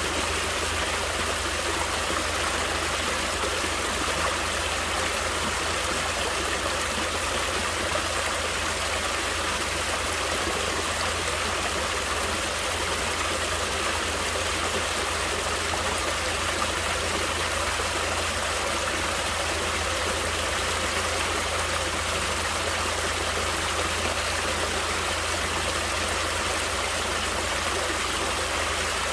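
Running water of a natural stream, a steady unbroken rush and babble.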